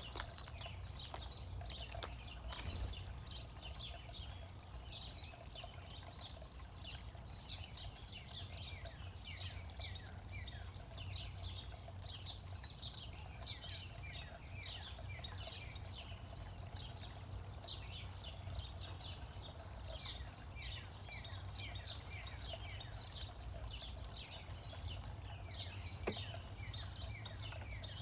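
Backyard birds chirping without pause, a dense run of short falling chirps, over a low steady hum.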